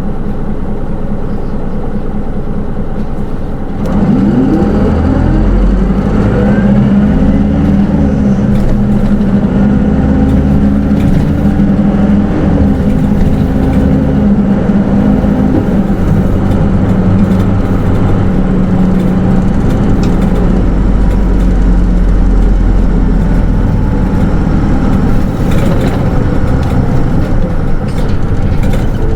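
Hino Rainbow II SDG-KR290J1 diesel bus with automatic transmission, heard from inside the cabin: running at a low steady level, then about four seconds in it pulls away, the engine and drive whine rising and stepping back several times as the gearbox shifts up, before settling into a steady cruise.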